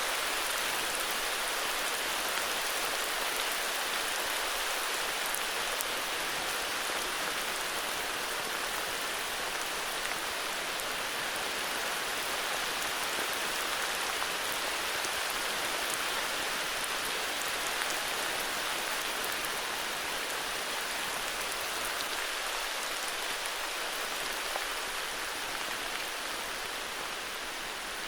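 Steady, heavy rain falling, an even dense patter without pauses.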